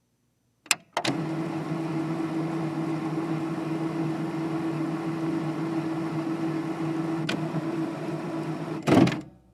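A small electric motor in a piece of technical equipment switched on with a click and running with a steady hum for about eight seconds, with a faint tick partway through, then stopping with a louder clunk near the end.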